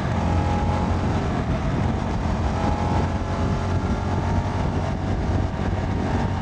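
CFMoto 300NK's single-cylinder engine running at a steady cruise on the move, with wind and road rush over the rider's microphone.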